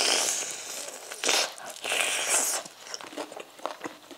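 Crunchy bites into a crisp deep-fried rabbit leg, then chewing. The loudest crunches come in the first couple of seconds, and quieter chewing clicks follow.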